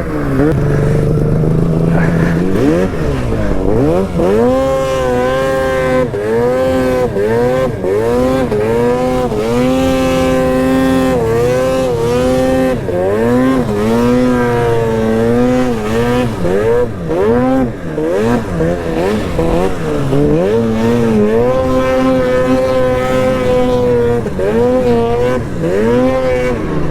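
Arctic Cat snowmobile with an aftermarket GGB exhaust, ridden hard. The engine revs rise and fall every second or two, with a few stretches held steady at high revs.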